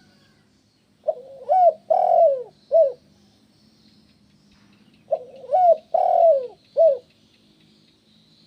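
Spotted dove (tekukur) cooing: two calls about four seconds apart, each a short run of coos with a longer falling note in the middle.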